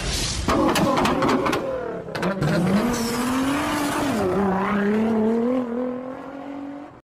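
Car engine revving, its pitch dipping and rising, with a run of sharp clicks in the first two seconds; it cuts off abruptly near the end.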